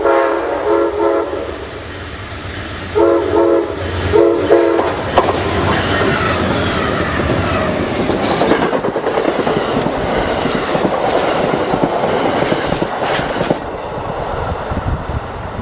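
Locomotive multi-chime air horn sounding short blasts, one near the start and two more about three and four seconds in, then the train passing at speed with wheels clacking over the rail joints, the rush easing off near the end.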